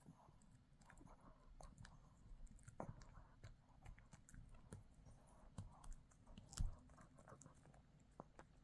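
A dog chewing on a dog chew, with faint, irregular clicks and crunches of teeth on the chew. One louder thump comes about six and a half seconds in.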